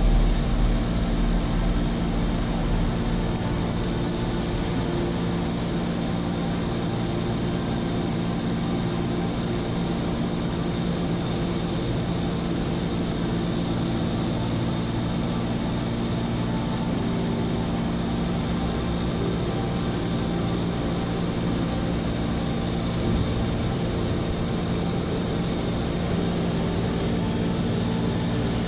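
Seaplane's propeller engine running steadily at an even pitch, a constant hum with no change in speed.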